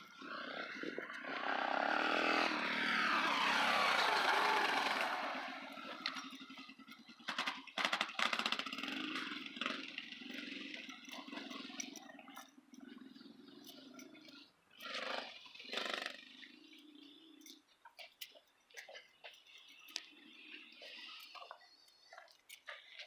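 Dirt bike engine running as the bike passes close, loudest a few seconds in, then fading as it rides away, still faintly heard until about three quarters through.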